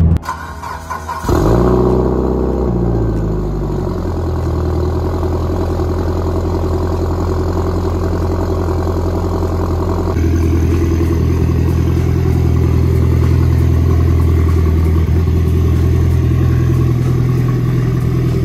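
Mitsubishi Lancer Evolution's turbocharged four-cylinder engine starting about a second in, its revs flaring and falling back over a couple of seconds to a steady idle. About ten seconds in the sound changes suddenly to a louder, fuller engine and exhaust note.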